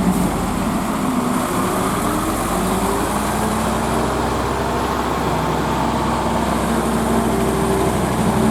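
Vintage diesel truck engine running at low revs, its pitch drifting gently up and down.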